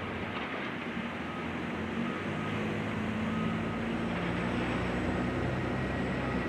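A heavy engine running, its low hum growing stronger about two seconds in, over a steady wash of noise.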